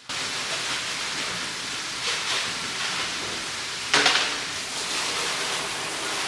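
Running water spraying hard in a steady hiss, which starts abruptly. There is a short clatter about two seconds in and a louder clank about four seconds in.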